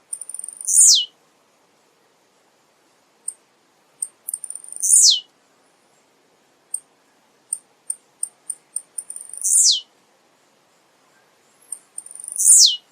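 Male blue-black grassquit (tiziu) singing: four short, high, buzzy songs, each a quick downward sweep, spaced about three to four seconds apart, with sharp high ticks in between.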